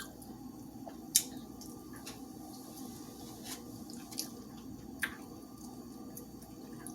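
A person chewing fried chicken: quiet wet mouth smacks and a few sharp clicks, the loudest about a second in, over a faint steady room hum.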